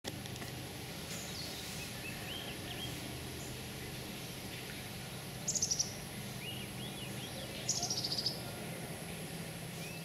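Songbirds calling over a steady outdoor background hiss, with scattered short chirps and two quick, high trills, one about five and a half seconds in and one near eight seconds.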